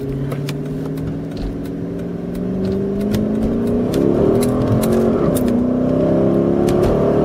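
2008 Dodge Charger R/T's 5.7-litre Hemi V8 with glasspack mufflers accelerating in first gear, heard from inside the cabin. The exhaust note climbs steadily in pitch and grows louder from about halfway through.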